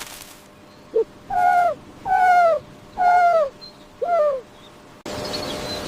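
An animal giving four short pitched calls about a second apart, each one falling in pitch.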